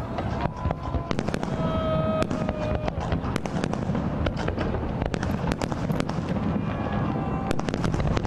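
Aerial fireworks display going off continuously: a rapid, irregular series of bangs and crackles over a steady rumble of distant bursts.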